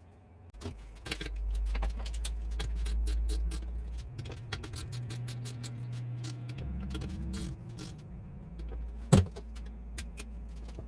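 Metal parts clinking and rattling over a steady low machine hum, with one sharp metallic knock about nine seconds in.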